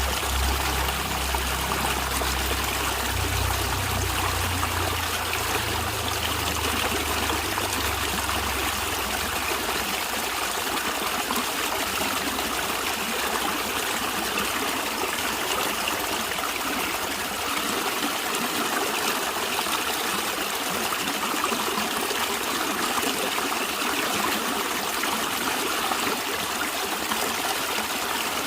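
Stream water running and trickling steadily. A low rumble sits under it at first and fades out about ten seconds in.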